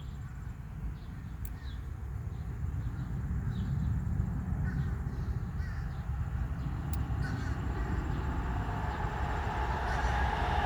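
Birds giving short calls about once a second over a steady low rumble. The rumble grows louder in the last few seconds.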